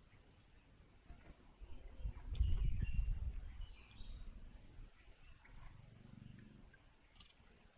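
Small garden birds giving short, faint chirps and calls, over a low rumble that swells for about a second and a half, a few seconds in.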